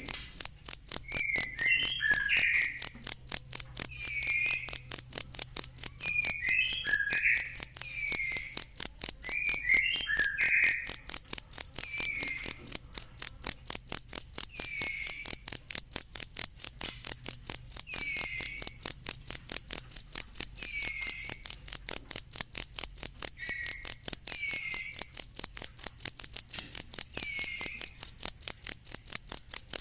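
Cricket chirping without pause in a fast, even train of high-pitched pulses, about four a second. Fainter, lower warbling calls come every second or two beneath it.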